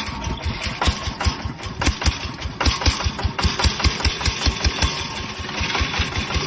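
Mini tractor's single-cylinder diesel engine chugging steadily, with evenly spaced low beats at about six a second.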